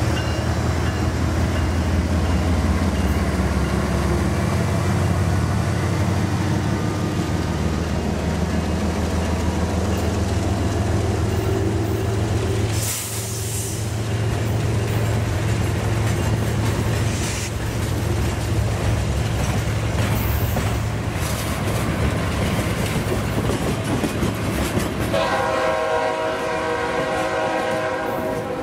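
CSX freight train's diesel locomotives running, a steady low rumble. About 25 seconds in, the locomotive air horn sounds a chord of several notes and holds it for a few seconds.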